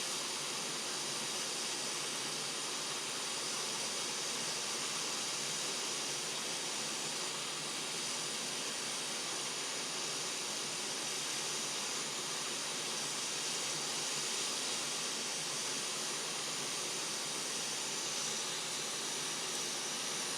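Hot air rework station blowing a steady hiss of air while soldering a MOSFET onto a laptop motherboard.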